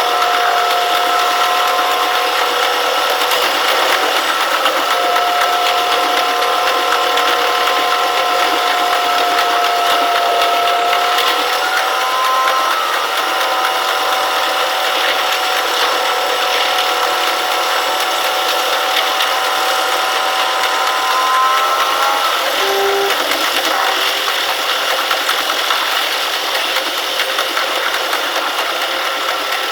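KiHa 120 diesel railcar running, heard from the cab: a steady whine of several tones over its running noise. The whine rises slightly in pitch partway through, then stops about three quarters of the way in, leaving only the running noise.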